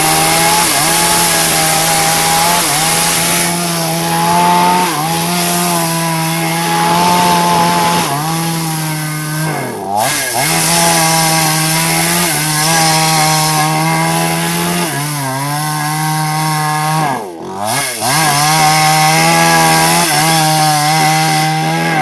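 Chainsaw running at high revs, cutting through a large sengon log; the engine pitch sags and recovers as the chain bites into the wood, with two brief drops in revs about ten and seventeen seconds in.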